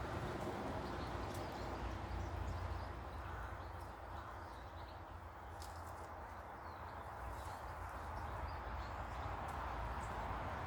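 Garden ambience: a steady background rumble and hiss with faint, scattered small bird chirps and a few light taps.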